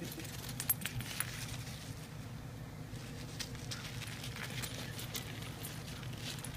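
Faint, scattered clicks and crunches of a small poodle moving about on crusted snow and ice, over a low steady hum.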